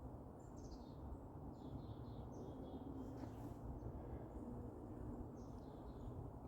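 Small songbirds calling: several short clusters of high, quickly falling notes, over a steady low rumble.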